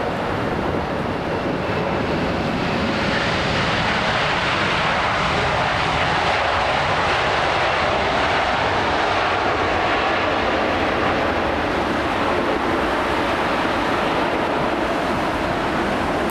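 Jet airliner engines passing close by, a steady rushing noise that swells about three seconds in and stays loud.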